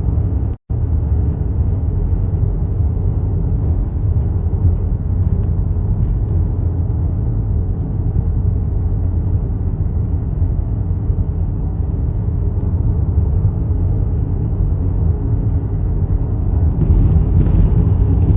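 Steady low road and engine rumble inside a car cruising at highway speed, cut by a brief dropout about half a second in.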